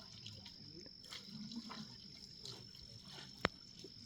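Faint splashing and trickling of water as elephants drink at a waterhole, with one sharp click about three and a half seconds in and a thin steady high tone underneath.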